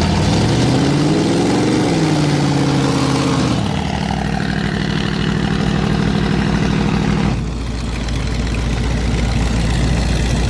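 A mud truck's V8 engine revving up and back down, then holding a steady note until it drops off suddenly about seven seconds in, with the engine still running underneath.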